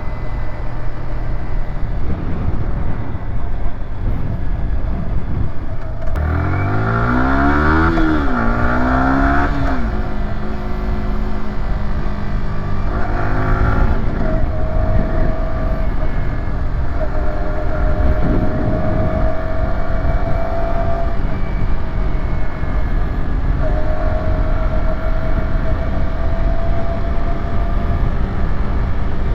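Yamaha YZF-R125's 125cc single-cylinder four-stroke engine under acceleration, heard over wind noise: about six seconds in the pitch climbs steeply, drops at a gear change, climbs again, then settles into a steady note that slowly rises as speed builds.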